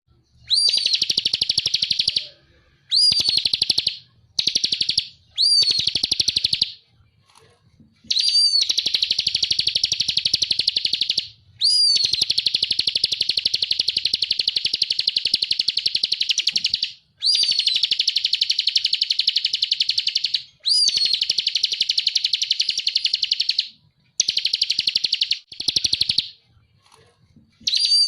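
Bar-winged prinia (ciblek) singing: repeated phrases that each open with a short rising note and run into a fast, dry rattling trill lasting one to several seconds, with brief pauses between them.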